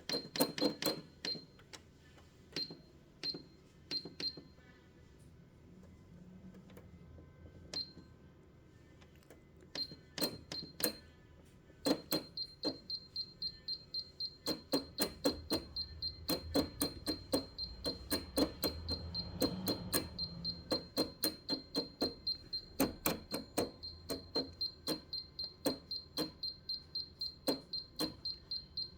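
Janome 5100 computerised sewing machine: scattered clicks and short high beeps over the first few seconds, as when stitch-selection buttons are pressed. From about twelve seconds in, the machine sews steadily, with an even clicking of about three stitches a second over a low motor hum.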